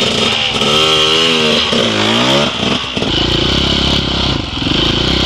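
Dirt bike engine revving up and down a few times, then from about three seconds in running steadily under a heavier, lower note.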